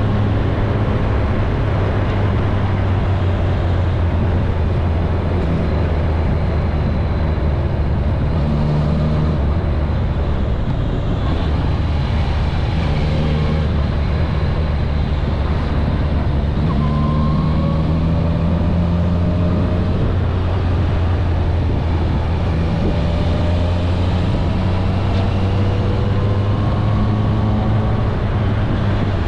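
Kawasaki ZRX1100's inline-four engine running under way, heard onboard: a steady low rumble with engine tones that slowly rise and fall as the bike speeds up and eases off, over continuous road noise.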